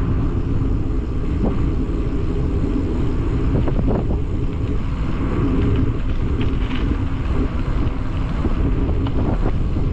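Strong wind buffeting the microphone in a steady, heavy low rumble.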